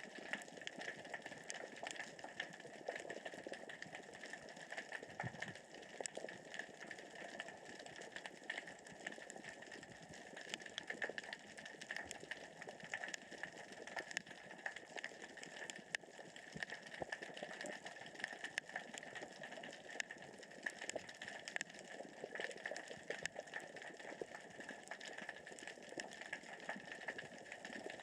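Underwater crackle: a dense, steady patter of tiny clicks, which the diver takes for small rocks rolling across the sea floor as the current and tide move them.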